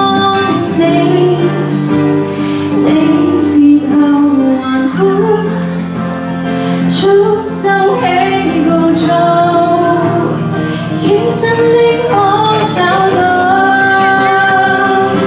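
A Cantopop ballad performed live: a female vocalist singing over amplified backing music with a steady bass line.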